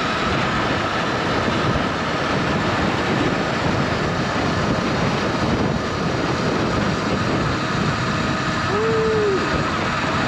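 Wind rushing over the lav mic on a Surron electric dirt bike at road speed, with a faint steady motor whine under it. A short hum rises and falls about nine seconds in.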